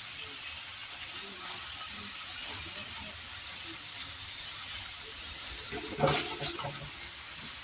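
Sliced sausage and vegetables sizzling steadily in a hot wok over a gas flame. About six seconds in the spatula stirs against the wok, a brief louder burst of scraping and knocking.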